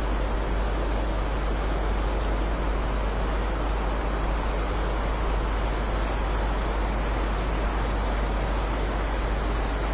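Steady heavy rainfall, an even, unbroken hiss with a strong low rumble underneath.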